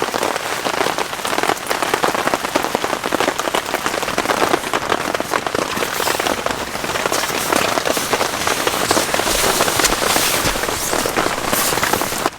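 Heavy rain pattering steadily on a tent, a dense, even patter of drops.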